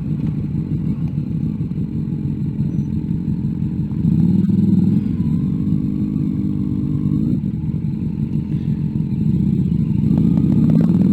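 Motorcycle engine running at road speed under a steady low rumble, its note rising and falling in the middle and climbing steadily near the end as the bike accelerates.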